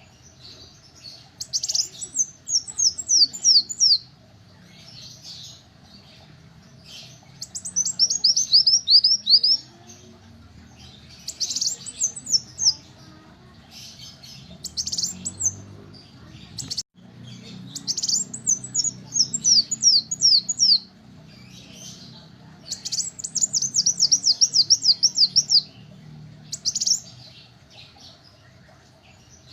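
Kolibri wulung sunbird singing: bursts of high, rapid chirps, each note sweeping quickly downward, given as short trills every few seconds, about eight bursts in all. A faint steady hum and low rumble lie underneath.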